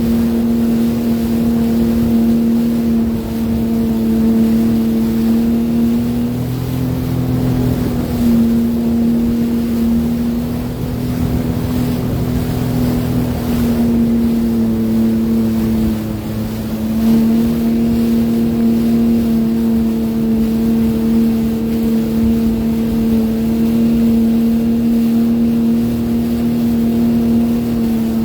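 Sea-Doo Fish Pro personal watercraft engine running steadily under way. Its pitch eases off and comes back briefly about a quarter of the way in, and again a little past halfway.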